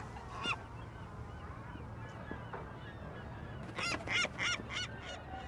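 Seagull squawking: one squawk about half a second in, then a quick series of about six squawks near the end, over a steady low background rumble.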